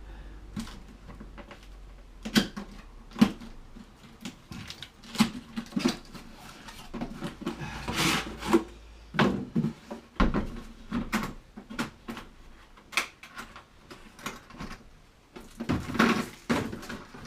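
A cardboard box holding a new air hammer kit being cut open and unpacked: scattered knocks and clunks of the contents being handled, with packaging rustling and tearing, most strongly about eight seconds in and again near the end.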